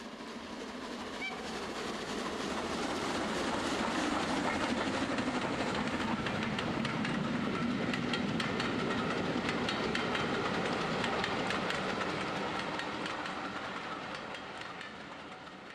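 A train passing. Its rumble swells over the first few seconds and fades away near the end, with a rapid clickety-clack of wheels over rail joints while it is loudest.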